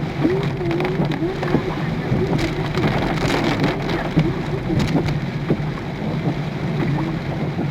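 Heavy rain pelting a car's roof and windscreen: a dense, steady patter with many sharp drop hits, over a low steady rumble of the moving car.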